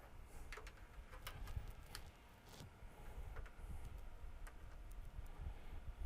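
Faint, irregular small clicks and light taps, the sound of handling small parts and tools on a workbench, over a low handling rumble.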